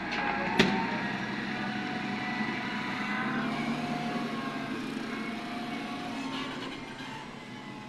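Heavy machinery engines running steadily, with a single sharp knock about half a second in; the sound eases off a little near the end.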